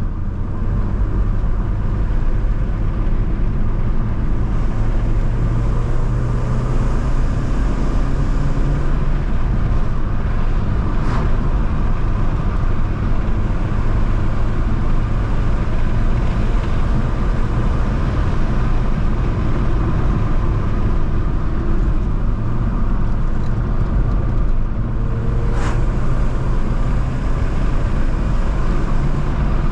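Alfa Romeo 156 1.8 Twin Spark four-cylinder petrol engine running as the car drives, a steady low engine drone with road noise, its pitch shifting slightly a few times. Two brief sharp ticks stand out, one about eleven seconds in and one a few seconds before the end.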